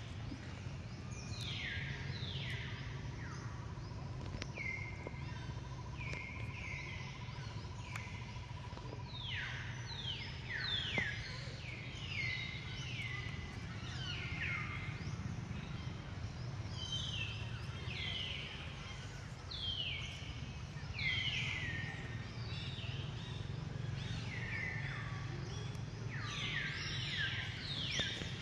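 Birds calling over and over, each call a short whistle sweeping down in pitch, several overlapping at times, over a steady low outdoor hum.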